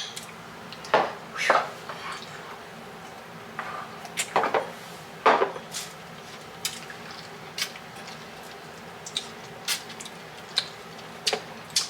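Scattered light clinks and knocks of glasses and dishes being handled, a dozen or so sharp ones spread irregularly, over a steady low hum.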